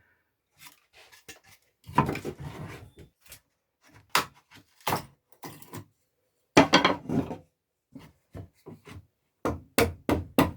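Cut wooden boards being handled and set together: a string of irregular knocks and clatters of wood on wood, with a couple of longer scraping, rattling stretches about two seconds and seven seconds in.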